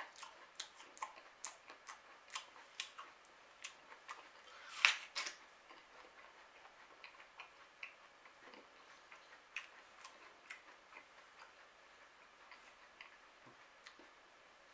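Chewing a bitten apple with the mouth close to the microphone: a run of crisp, uneven clicks and crunches about two to three a second, with one louder crunch about five seconds in, then fainter, sparser chewing.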